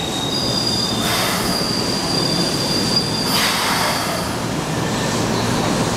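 Keikyu 800 series electric train slowing into a station, wheels rumbling on the rails with a high, steady squeal as it brakes. Two short hisses come about a second in and again after three seconds.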